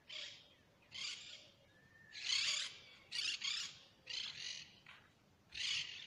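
Birds calling in a pine wood: a run of short, scratchy, high calls, roughly one a second, with a brief gliding note about two seconds in.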